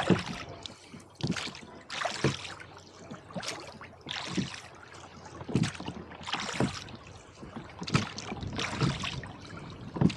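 Oars of a rowboat stroking through the water in a steady rhythm, a short splashing rush about once a second.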